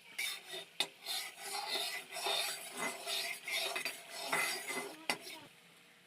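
A metal spoon scraping and stirring in a cooking pot in repeated strokes, with two sharp clinks, one about a second in and one near the end. It stops shortly before the end.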